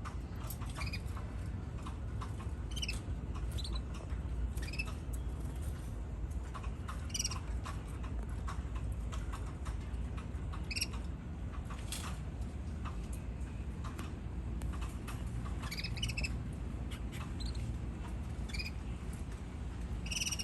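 Canaries giving short, scattered chirps, a call every second or so, over a steady low background rumble.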